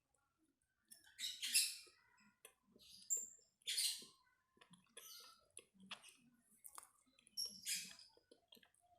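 Close-up eating sounds of a person chewing brem, a dry fermented rice cake: irregular crisp crackling crunches, four or five louder ones, with small wet mouth clicks between.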